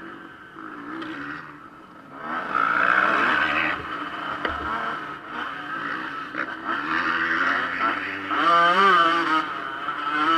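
Motocross motorcycle engines revving up and down on the track, swelling and fading, with a rapid wavering rise and fall in pitch around eight to nine seconds in.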